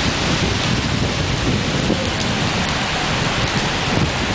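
Heavy rain falling in a thunderstorm: a steady, dense hiss of rain that holds an even level throughout.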